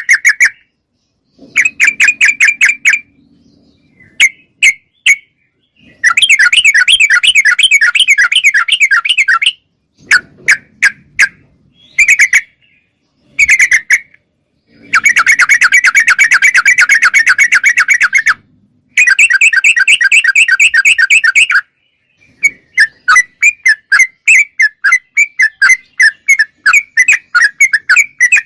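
Yellow-vented bulbul (trucuk) calling: bursts of rapid, bubbly chattering notes, some running for a few seconds, separated by short pauses. Near the end it switches to a run of evenly spaced notes, about three a second.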